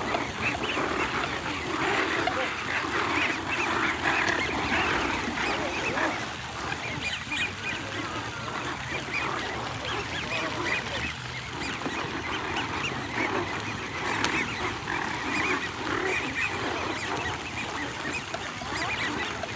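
A large flock of waterfowl calling continuously, many short calls overlapping one another with no break.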